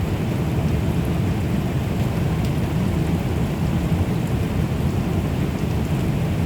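Heavy cloudburst rain falling steadily, a dense even hiss over a constant low rumble, with a few faint drop ticks.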